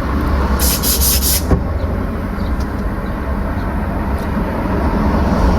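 Steady low rumble of a car with its engine running, with four short bursts of hiss about a second in.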